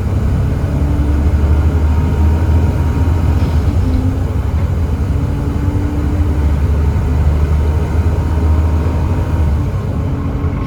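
Volvo B7TL double-decker bus's Volvo D7C 7.3-litre diesel engine running under way, a steady low rumble with a faint humming tone above it that comes and goes.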